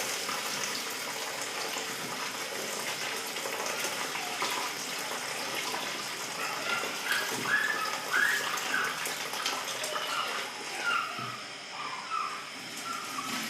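Rice being washed by hand in water, with water running and splashing steadily.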